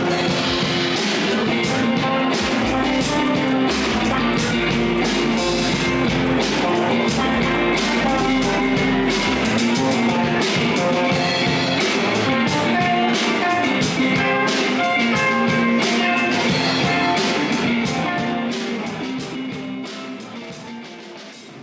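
Rock music from a live band, electric guitar over a drum kit, fading out over the last few seconds.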